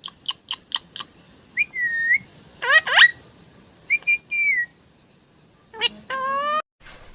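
Pet parrot whistling and chirping. It starts with a quick run of about five short chirps, then gives several pitched whistles, some gliding sharply upward. A last rising whistle about six seconds in cuts off abruptly.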